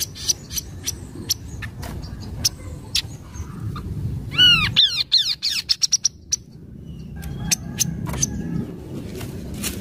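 Kaso-kaso bird calling: sharp clicking notes scattered throughout, with a quick run of arched, chirping whistles about midway, over a steady low rumble.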